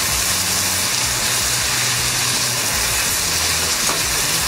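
Wood ear mushroom and meat filling sizzling steadily in a nonstick frying pan while it is stirred with a wooden spatula, a constant frying hiss.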